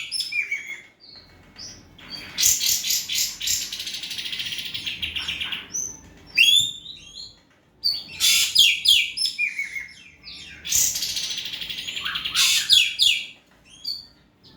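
Ekek keling calling in song: three long bursts of fast rattling chatter, with short sharp single calls between them.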